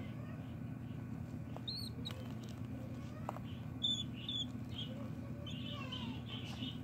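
Baby budgies giving short, high cheeps: a few scattered ones, then a quick run of them near the end, over a steady low hum.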